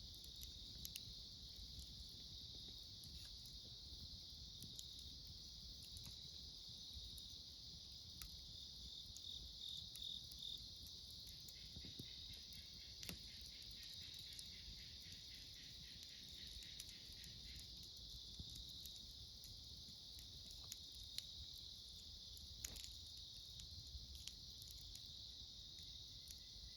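Autumn crickets and other insects chirping in a steady, faint chorus, with a second insect's pulsed trill joining for several seconds in the middle. Occasional small pops from a wood campfire crackling.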